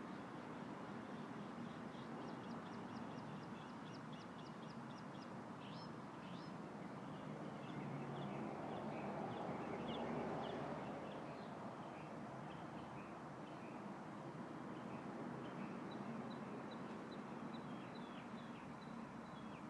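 Breeze rustling through a tree's leaves, swelling for a few seconds midway, with rapid high chirping from small birds a few seconds in and again near the end.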